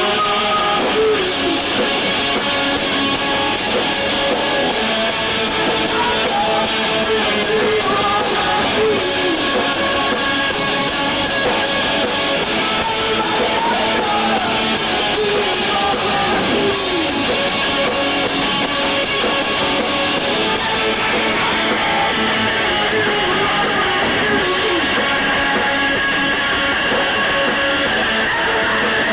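Emo rock band playing live: loud electric guitars over bass and drums, with a steady cymbal beat, the song running on without a break.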